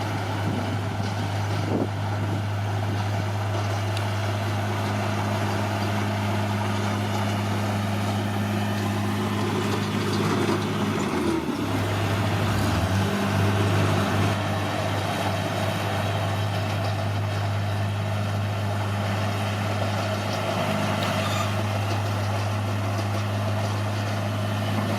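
Bulldozer's diesel engine running steadily under a wash of mechanical clatter, its note shifting briefly about halfway through before settling back.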